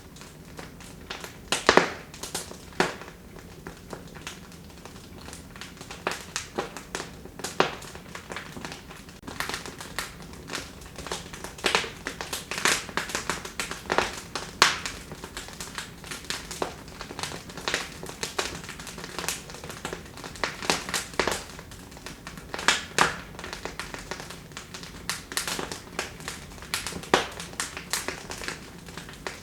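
Wood fire burning in a fireplace, crackling with irregular sharp pops and snaps over a low steady hiss; the pops come thickest in the middle.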